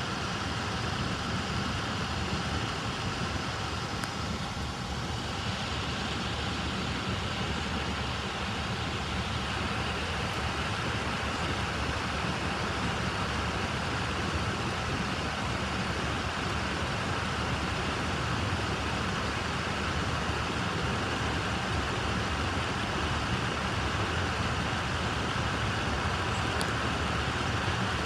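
Union Pacific local freight train rolling through a grade crossing: a steady rumble and rail noise that holds evenly throughout.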